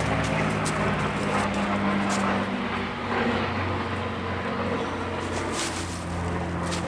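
A steady low engine drone, like distant motor traffic, with a few faint clicks and rustles.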